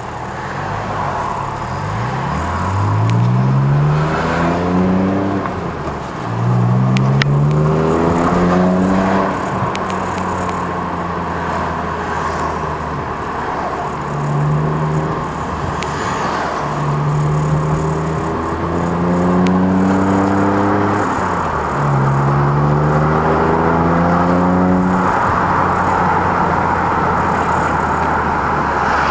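BMW E92 335i's turbocharged straight-six through a Dixis titanium exhaust with a custom mid pipe, accelerating in about four pulls, each rising in pitch and then dropping at a shift. Between the pulls it runs steadily, and near the end it settles into cruising with road noise.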